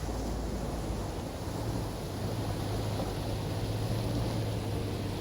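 Car driving on a rough road: steady engine and road rumble with wind noise, the engine note climbing about two seconds in.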